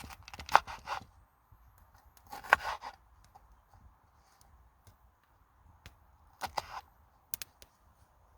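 Short bouts of scraping and rubbing, three brief spells with a few sharp clicks near the end.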